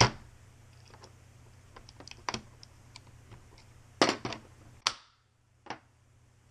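Sharp clicks and knocks of hard airsoft-rifle parts being handled on a work surface: a loud knock at the start, scattered light clicks, then a quick cluster of knocks about four seconds in and two more single knocks after.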